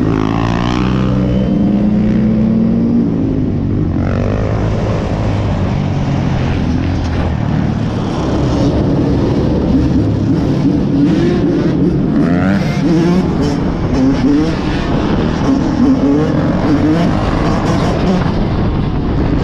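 Several motorcycle engines running and revving, their pitch rising and falling as the group rides along.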